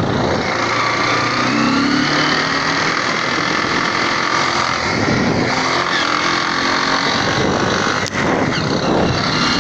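Honda CG Titan motorcycle's single-cylinder engine running under way in first gear with a strange noise, a set of high whining tones over the engine, which the rider fears comes from a worn gear in the gearbox. A sharp click about eight seconds in.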